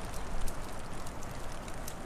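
Wood fire crackling: scattered small sharp pops over a steady hiss and low rumble.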